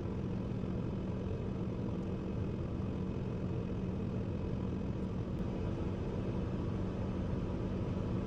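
2001 Ford Ranger engine idling steadily after its dead ignition coil was replaced, running smoother with no current misfires.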